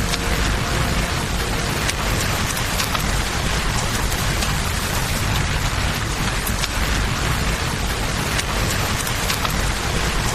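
Steady rain with a low rush of flowing river water under it, and scattered sharp pops from a crackling campfire.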